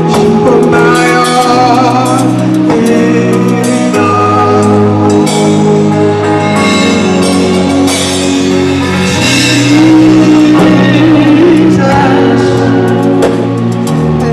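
Church choir singing a gospel song with band accompaniment under a sustained bass line.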